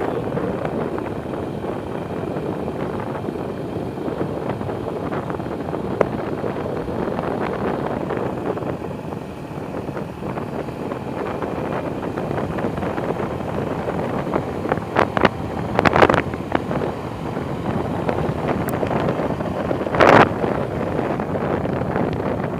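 Motorcycle riding along, its engine and road noise under steady wind buffeting on the microphone, with a few brief louder bursts around fifteen and twenty seconds in.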